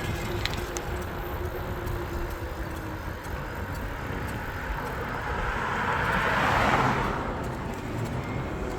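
A car passing by, its tyre and road noise swelling to a peak about six to seven seconds in and then fading, over a steady low rumble.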